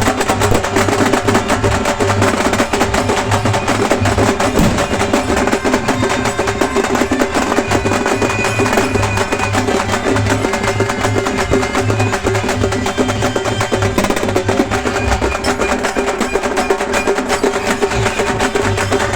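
Halgi ensemble playing: several Maharashtrian frame drums beaten with sticks in a fast, dense, continuous rhythm.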